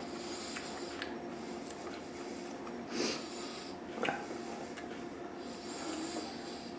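Quiet room tone with a faint steady hum, broken by a short breathy noise about three seconds in and a small click about a second later.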